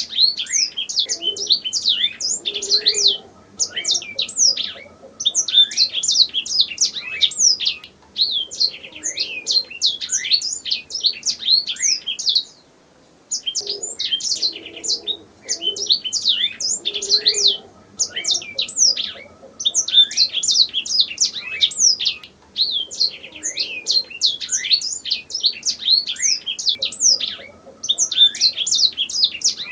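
Domestic canary singing: long phrases of rapid, high chirps and rolling trills, broken by short pauses, with the longest pause about halfway through.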